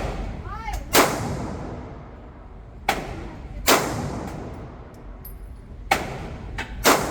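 Single gunshots fired at a shooting range, about six in all, spaced irregularly one to three seconds apart, each with a short ringing tail; some shots are louder than others.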